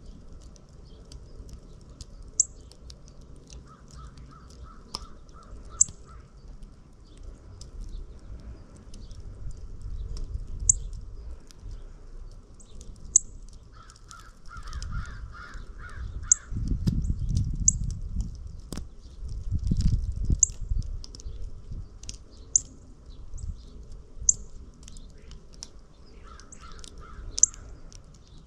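Backyard birds calling: short, sharp high chips repeat every second or two, with three brief runs of rapid, harsher, lower calls. A low rumble of wind swells in the middle.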